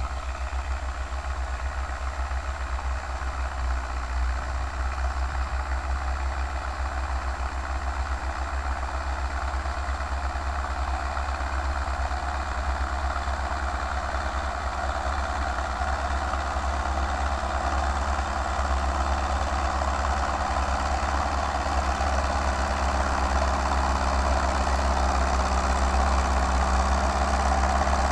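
Belarus MTZ tractor's four-cylinder diesel engine running steadily while pulling a plough, growing slightly louder toward the end.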